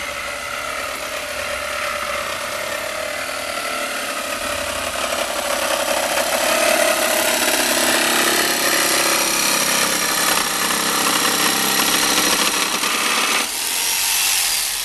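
A power tool's motor running continuously with a wavering pitch, growing louder through the middle. Its lower range cuts out shortly before the end.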